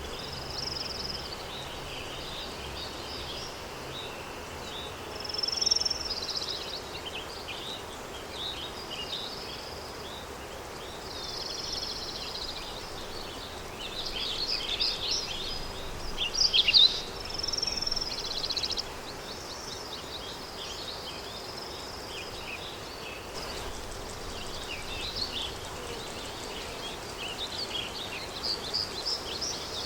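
Countryside daytime ambience: several small birds chirping and singing in short calls and trills, with a busy run of rapid chirps about halfway through, over a steady background hiss of wind.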